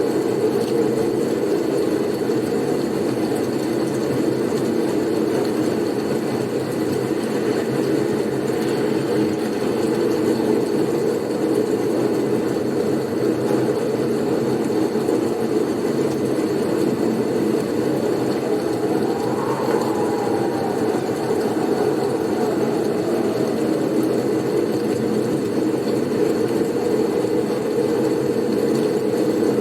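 Steady low rush of blizzard wind, with a faint whistle that rises and falls about two-thirds of the way in.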